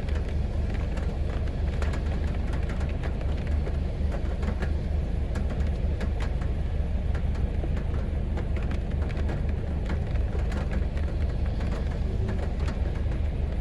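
Heavy rain falling on a city street: a steady wash of noise with a deep low rumble underneath and many scattered sharp drop hits.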